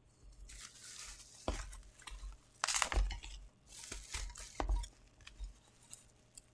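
Packaging being handled and opened: rustling and tearing, with several sharp clicks and knocks about one and a half, three and nearly five seconds in.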